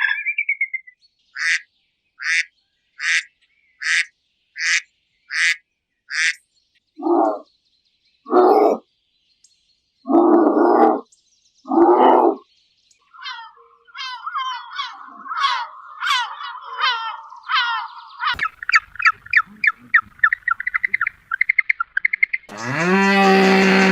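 A series of animal calls. First come seven short, high calls at an even pace. These are followed by four lower, longer calls, then a rapid chirping that quickens into a trill. A loud call begins near the end.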